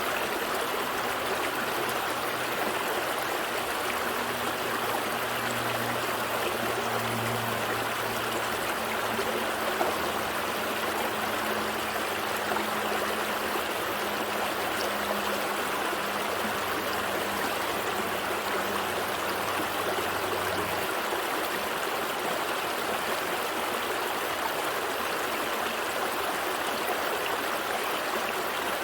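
Small gentle stream flowing, a steady even rush and trickle of water. A faint low hum runs underneath and stops about two-thirds of the way through.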